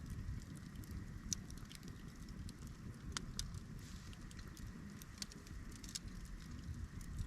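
Wood campfire crackling, with scattered sharp pops and snaps over a low steady rumble.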